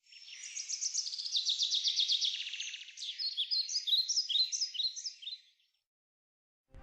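Bird song: a fast, high trill of rapid notes for about three seconds, then a run of separate short falling notes that stops a little past the middle.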